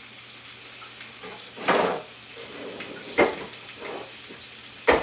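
Chicken legs sizzling in a hot pan, with kitchenware clattering three times as dishes and utensils are handled, the first clatter a little longer than the others.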